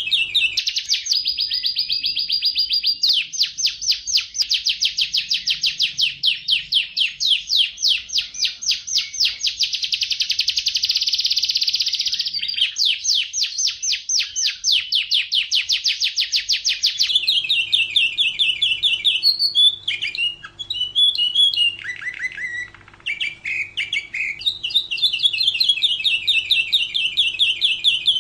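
Domestic canary singing a long song of rapid trills, one rolling phrase running into the next at changing speeds, with a short break of scattered notes about two-thirds of the way through.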